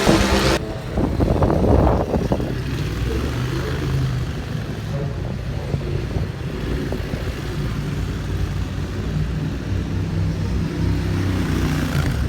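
Race motorcycles' engines heard from trackside as a steady low rumble. A loud, full sound cuts off about half a second in, and a few short bursts follow within the next couple of seconds.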